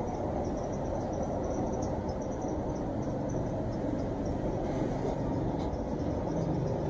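Steady low background rumble with faint, high insect chirps repeating over it.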